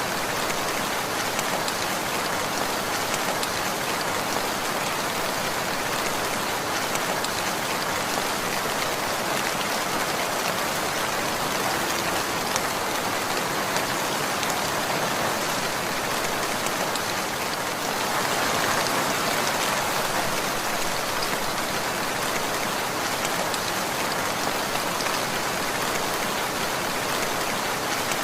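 Steady rainfall, a dense patter of raindrops on a surface, swelling a little about two-thirds of the way through.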